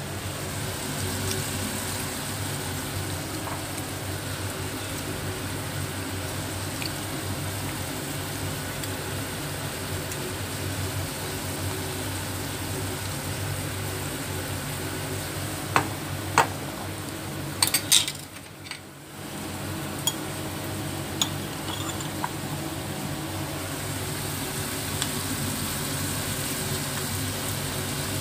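Marinated pork spareribs sizzling in their sauce in a frying pan, a steady frying hiss. There are a few sharp clinks of a utensil on the pan around the middle, and a brief dip in the sound just after.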